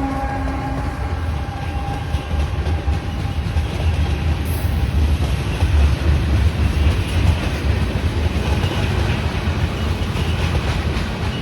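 A train passing on the rails, with a steady, loud rumble of wheels and cars.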